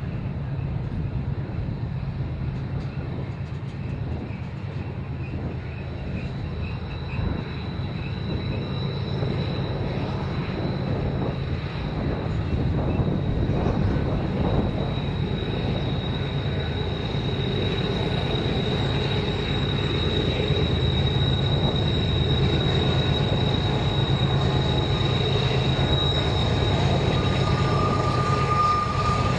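A train rumbling by and slowly growing louder, with a high, steady wheel squeal for much of the time. A lower steady tone comes in near the end.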